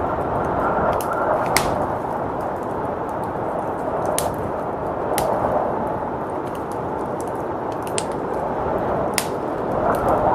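Wood fire crackling, with sharp pops scattered irregularly over the steady rush of blizzard wind. The wind swells near the end.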